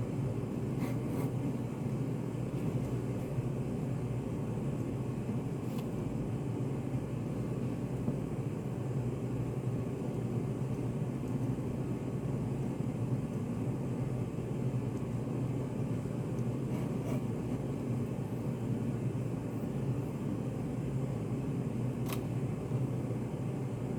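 Study café room ambience: a steady low hum, with a few faint clicks now and then and a sharper one near the end.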